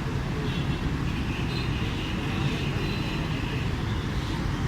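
Steady low engine rumble of heavy machinery and road traffic, with faint higher whining sounds coming and going above it.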